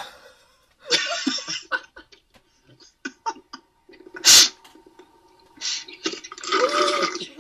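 Non-speech vocal noises from a person: a breathy burst about a second in, a loud, sharp sneeze-like burst about four seconds in, and a longer laugh-like vocal sound near the end.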